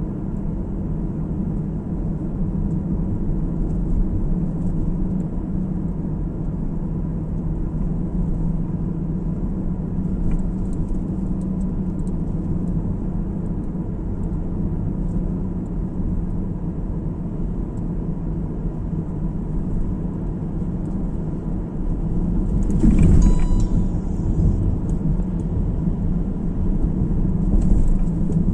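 A car's road noise heard from inside while driving: a steady low rumble of tyres and engine. About two-thirds of the way through comes a brief louder burst with a short beep-like tone.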